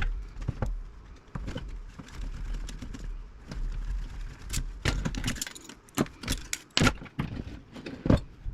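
Irregular metallic clicking and clattering of hand tools and small metal parts being handled while a radio chassis is dismantled, with several sharper knocks in the second half.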